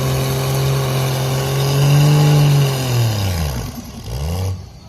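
Truck engine held at high revs, then the revs fall away about three seconds in, with a short blip of the throttle before the sound cuts off abruptly.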